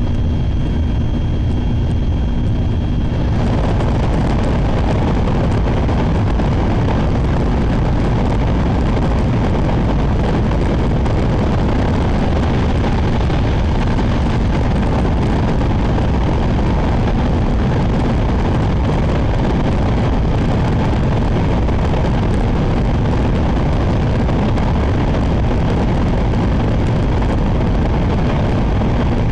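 Shinkansen train running at high speed, heard from inside the passenger car: a loud, steady rumble and rushing noise. About three seconds in, a few faint steady tones drop away and the noise grows fuller and brighter.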